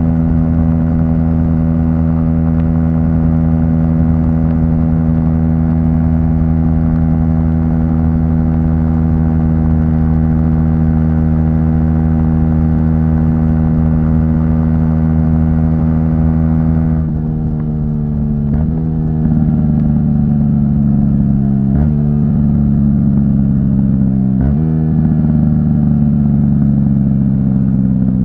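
Aprilia SX 125 single-cylinder four-stroke engine through an Arrow exhaust, held at a steady cruise with its note creeping slowly higher. About two-thirds of the way in, the throttle closes and the note falls away. It jumps sharply up three times as the bike is shifted down while slowing.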